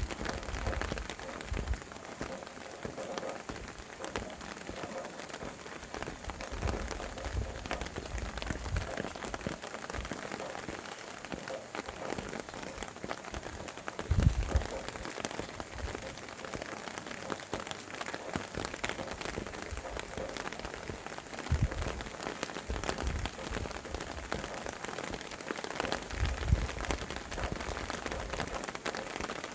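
Steady rain with many individual drops pattering, and now and then low gusts of wind rumbling on the microphone, the strongest about 14 seconds in.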